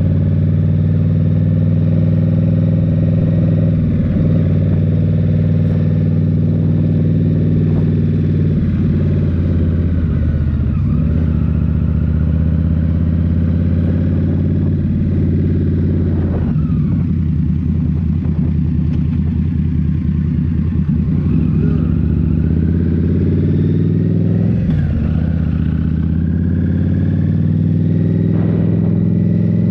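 Indian Scout Rogue's 69 cu-in V-twin running through a Rinehart slip-on exhaust while riding. The engine note drops and climbs back several times as the throttle is rolled off and reopened or gears are changed.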